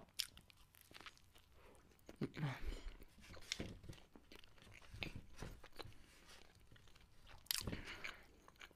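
A person chewing a mouthful of burger close to the microphone: faint, scattered wet mouth clicks and smacks, with one louder crunch about seven and a half seconds in.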